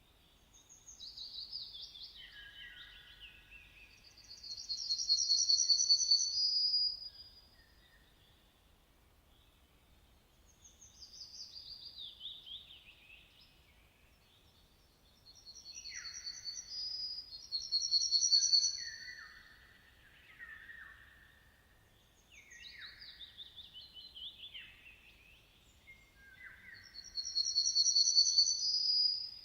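A songbird singing in repeated phrases: runs of quick falling notes, each followed by a loud, high, steady phrase, about four times with short pauses between.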